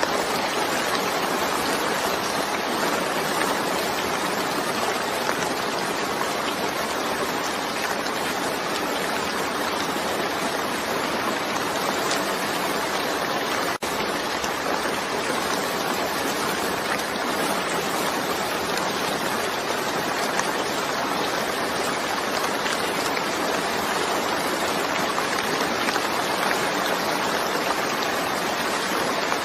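Steady rain falling, an even, unbroken hiss with a brief dropout about fourteen seconds in.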